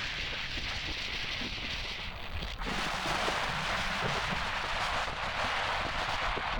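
Wind rushing over a helmet-mounted camera on a moving motorcycle, a steady hiss that gets louder about two and a half seconds in.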